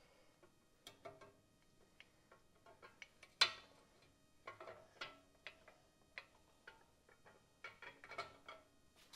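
Camshaft being worked out of a Ford 300 inline-six block: irregular light metallic clicks and clinks, the loudest about three and a half seconds in.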